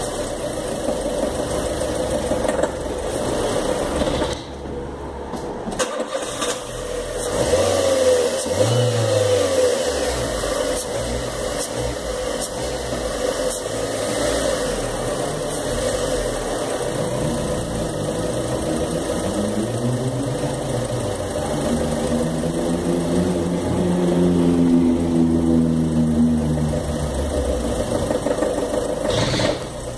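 Fiat Fire Economy four-cylinder engine running under load in a car held by its handbrake, with a metal-on-metal knock. The engine drops out briefly about five seconds in and comes back, then rises and falls in pitch under load. The mechanic puts the knock down to bad, adulterated gasoline.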